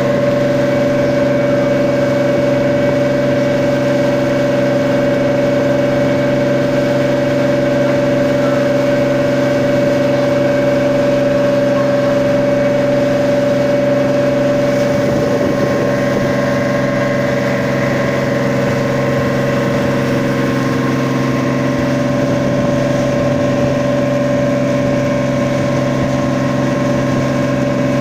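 A boat's engine running steadily at a constant pitch, a loud even drone.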